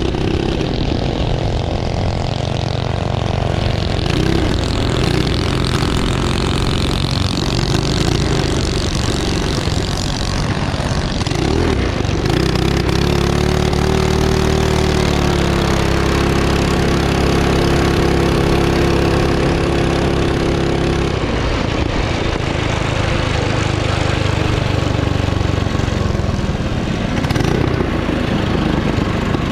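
Small minibike engine running hard around a circle track, its pitch rising and falling several times as it speeds up and eases off, and held steady at high revs for several seconds in the middle.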